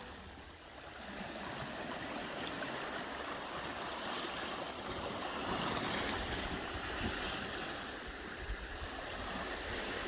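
Sea waves washing in, a steady rush of water that swells a little about halfway through.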